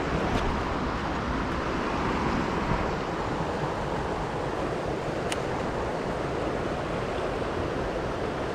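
Steady rush of creek water running over rocks, an even unbroken roar, with a faint tick about five seconds in.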